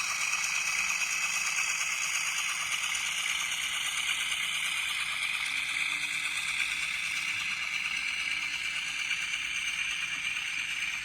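N scale model of an 80 Class diesel locomotive, its DCC sound decoder playing a steady diesel engine sound through the model's tiny speaker as it hauls a heavy coal train, with the rattle of the model running on the track. The sound is thin, with almost no low end.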